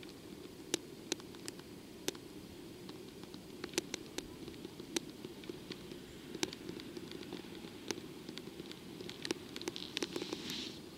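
Steady low rumble of an approaching train heard from beside the line, with scattered sharp ticks and clicks throughout and a short hiss about ten seconds in.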